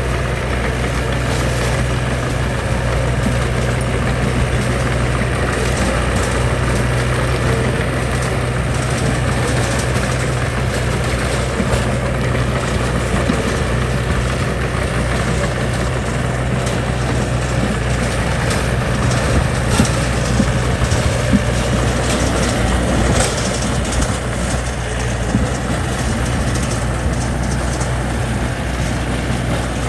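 Diesel engine of heavy construction machinery running steadily with a low hum, with a few short knocks in the second half.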